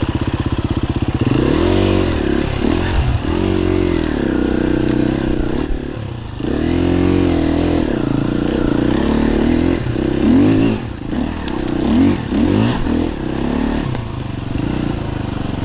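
Enduro dirt bike engine running, steady for about a second, then revved up and down over and over as the throttle is worked.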